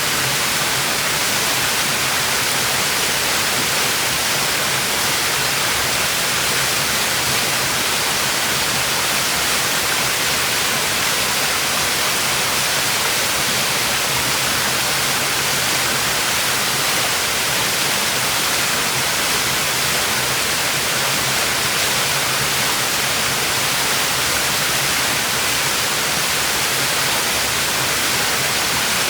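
Small waterfall pouring steadily into its pool, a constant even rush of falling water with most of its energy in the upper range.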